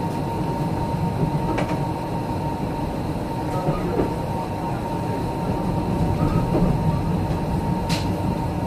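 Steady rumble of a passenger sleeper car running on the rails, heard from inside the carriage, with a thin steady whine throughout and two sharp clicks, one early and one near the end.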